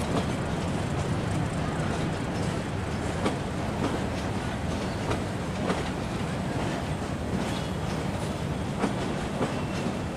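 Metre-gauge passenger coaches rolling slowly through a station yard while being shunted, a steady rumble with irregular clacks and knocks as the wheels cross rail joints and points.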